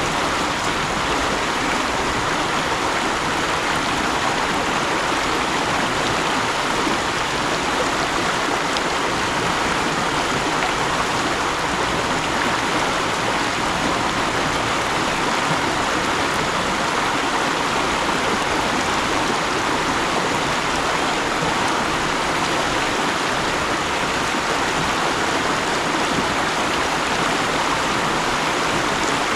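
Mountain stream rushing and burbling over rocks in a steady, even wash of water noise.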